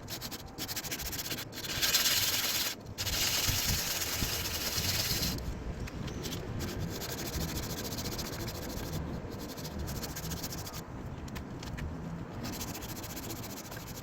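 Sandpaper scrubbing by hand on the steel of a car door, stripping rust back to bare metal. The rubbing is louder and harsher for a few seconds near the start, then goes on steadier.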